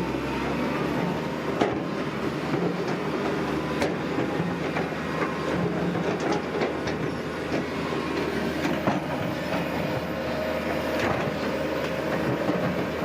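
Tracked earthmover's diesel engine running steadily under a clatter of steel crawler tracks, with irregular sharp metallic knocks.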